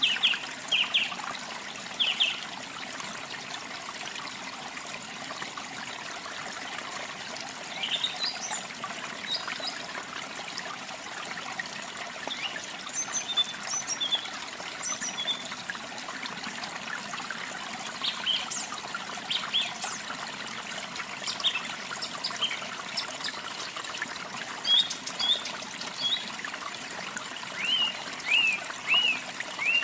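Steady trickling of running water, with small songbirds chirping on and off over it: quick bunches of short, sharp upward chirps near the start, about eight seconds in, and in several clusters through the second half.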